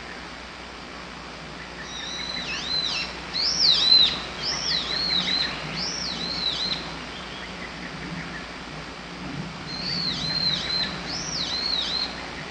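A wild bird singing two quick phrases of high, arching whistled notes, the first about two seconds in and the second near the end.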